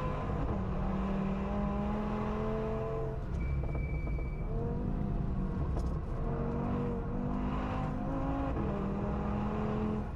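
The Audi S1's swapped-in RS3 2.5-litre five-cylinder engine running hard on track, its pitch climbing through the revs and dropping back at gear changes several times.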